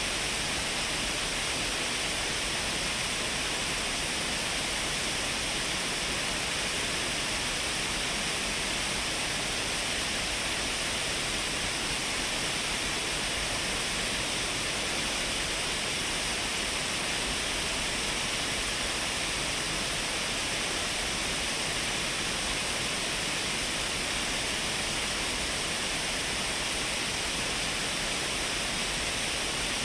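Shiraito Falls, a wide curtain of many thin streams of water falling over a cliff, making a steady, unbroken rush of falling and splashing water.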